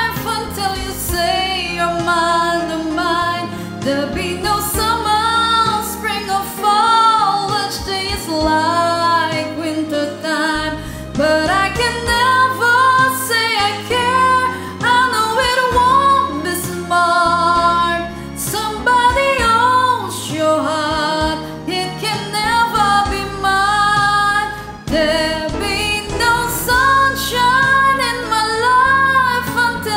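A woman singing a slow ballad over a karaoke backing track, her held notes wavering.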